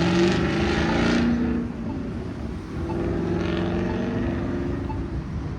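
Road traffic at an intersection: cars driving past, their engine notes rising as they accelerate. The loudest in the first second and a half, another a couple of seconds later.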